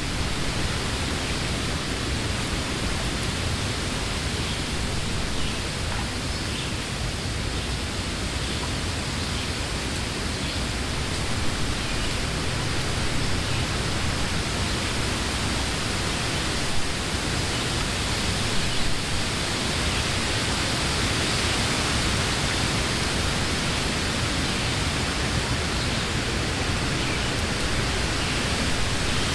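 Summer wind blowing steadily through trees, a constant rushing of leaves with a low rumble underneath.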